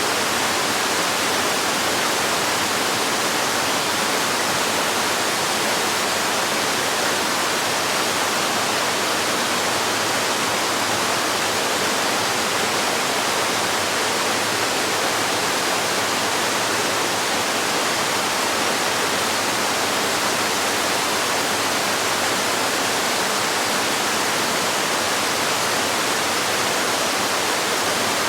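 Waterfall rushing in a steady, unbroken wash of splashing water, with no music over it.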